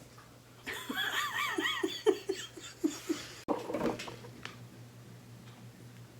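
A person laughing: a quick run of about eight "ha" pulses starting about a second in, then a short trailing laugh.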